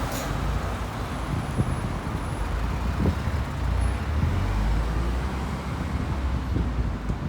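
Road traffic with buses and cars passing: a steady low engine rumble, with a faint high whistle for about a second early on.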